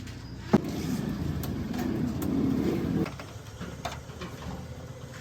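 Heavy diesel engine running, with one sharp knock about half a second in; the engine then runs louder for about two and a half seconds before dropping back to a steady lower note.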